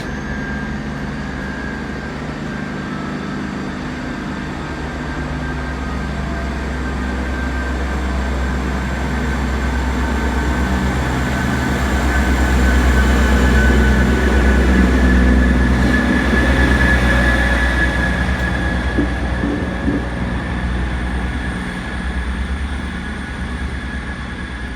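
GWR Class 158 diesel multiple unit pulling out of the station: steady diesel engine hum and rolling wheels on the rails, growing louder toward the middle as it passes and then fading away.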